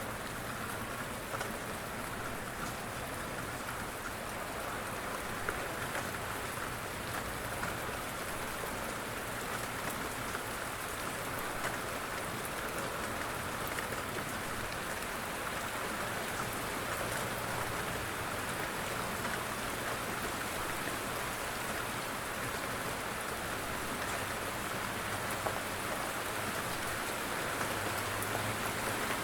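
Steady rain falling, with a constant hiss and many small drops pattering on surfaces.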